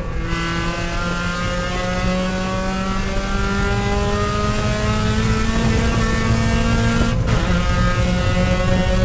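Mazda Miata race car's four-cylinder engine under hard acceleration, heard from inside the cockpit, its pitch rising steadily for about seven seconds. It briefly breaks off, then runs on at a slightly lower pitch.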